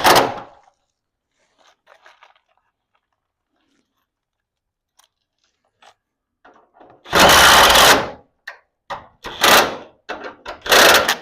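Loud tool-and-metal work on a steel garage door hinge: a sharp bang at the start, then a quiet stretch, then about a second of dense, loud grinding-clattering noise followed by two shorter loud bursts and scattered clicks.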